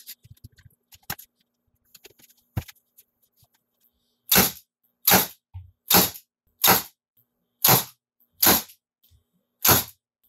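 Milwaukee M18 FUEL 18-gauge cordless narrow crown stapler firing staples into wood: seven sharp shots just under a second apart, starting about four seconds in, after a few light handling clicks.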